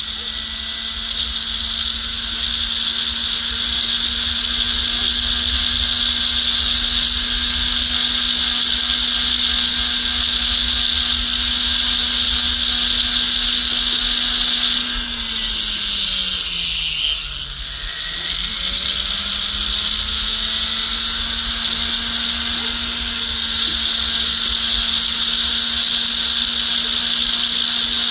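Rotary tool spinning a silicone polishing wheel against a gold ring: a steady motor whine with a hiss of the wheel on the metal. About halfway through, the motor slows, its pitch sagging, then speeds back up.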